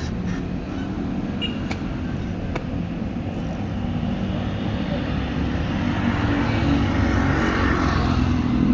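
Steady vehicle and road noise, a low rumble that grows slightly louder in the second half, with a few faint clicks.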